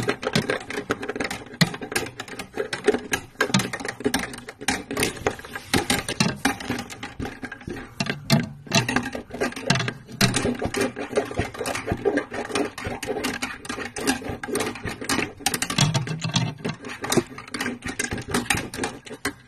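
Iron wire being worked down a refrigerator's plastic drain tube, rattling and scraping against the tube wall in fast, irregular clicks as it is pushed to clear the blockage.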